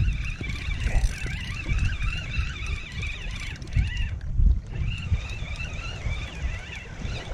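Uneven low rumble of wind and handling on the microphone, over a continuous high warbling chirping that breaks off briefly about four seconds in.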